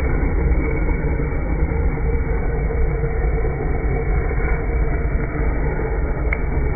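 Handheld gas torch flame blowing steadily onto firewood: a continuous, even rushing noise, with one sharp crackle about six seconds in.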